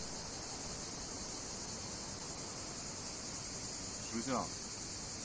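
A steady chorus of insects, a shrill high buzz with no break.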